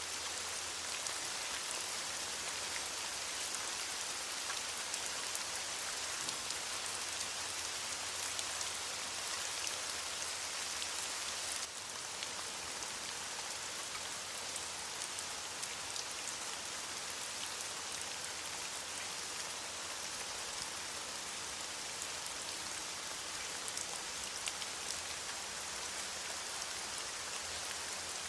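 Steady rain pattering on leaves, a dense even hiss of drops. The level dips slightly and abruptly about twelve seconds in.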